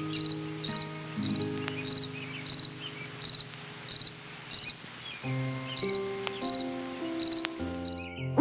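Cricket chirping at an even pace, about three chirps every two seconds, each chirp a short high trill of a few quick pulses, over soft background music.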